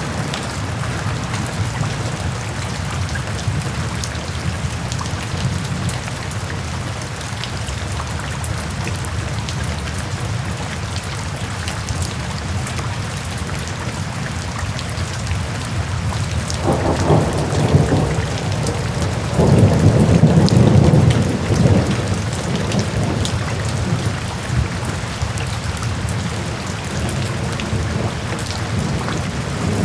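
Steady rain falling, with low rolling thunder rumbling twice a little over halfway through.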